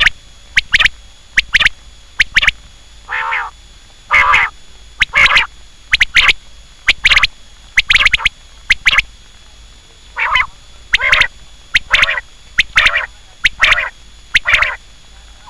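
Quail calling over and over in short, sharp notes, often grouped in twos or threes about once a second. One lower, longer call comes about three seconds in.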